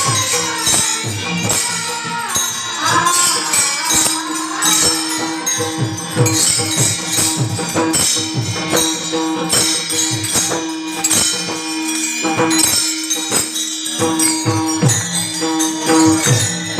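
Devotional music in slow ṭhāī chāl style: a pakhawaj drum beating steady strokes with jingling percussion. A voice glides through a sung phrase in the first few seconds, then a steady note is held under the drumming.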